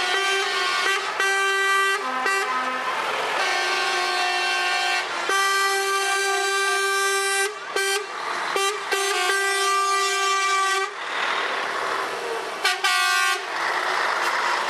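Truck air horns blowing long, steady blasts, with several short toots in the middle and another near the end, between stretches of passing truck noise.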